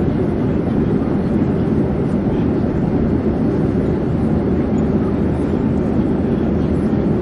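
Airplane in flight: a steady, even rumble, heaviest in the low range, with no change in pitch or loudness.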